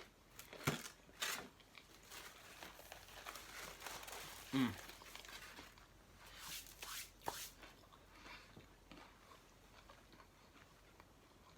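Close-up eating sounds: a paper food wrapper crinkling and tearing in short sharp bursts, with crunchy bites. About halfway through there is a brief low falling hum from the eater.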